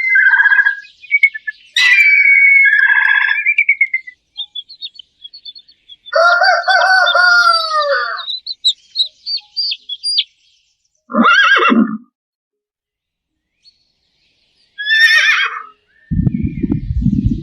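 A rooster crowing, with one long crow about six seconds in, among several shorter bird and animal calls that come and go.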